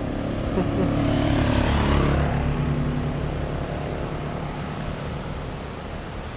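An engine drones steadily with a low rumble. It grows louder over the first two seconds and then slowly fades, like a motor vehicle passing by.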